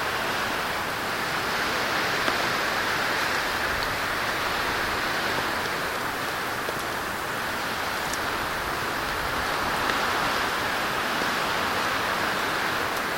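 Heavy rain falling with an even, steady hiss, with a few faint ticks of drops.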